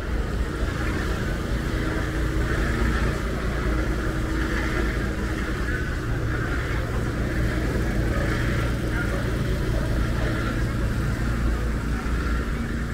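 Street traffic ambience: a motor vehicle's engine running steadily over a constant low rumble.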